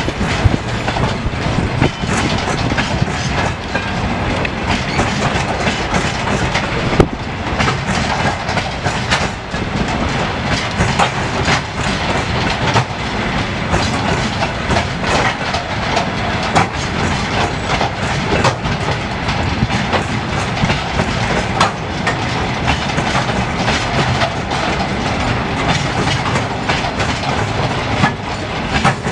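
Railway work train's wheels rolling over rail joints, a steady run of clacks, with a sharp knock about seven seconds in.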